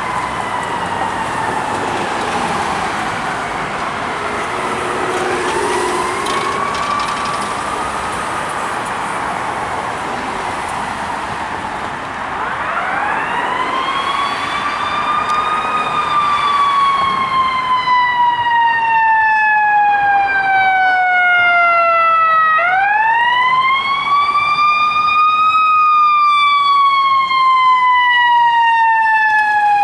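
Fire apparatus and ambulance sirens wailing in long slow cycles, each rising quickly then falling away over several seconds, with two wails overlapping early on. The sirens grow louder in the second half as the vehicles approach.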